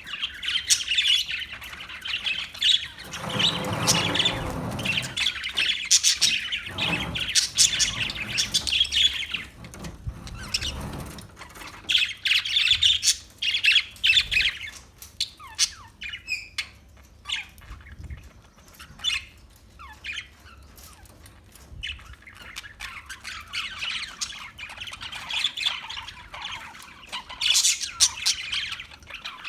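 Parakeets chirping and squawking in quick, overlapping calls, with a lower-pitched sound between about three and five seconds in.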